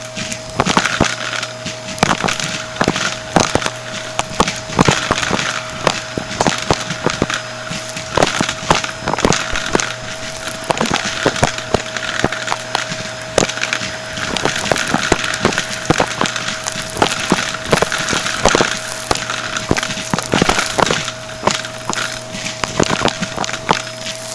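Vacuum cleaner running steadily while picking up coins, which clatter through it in rapid, irregular clicks and rattles.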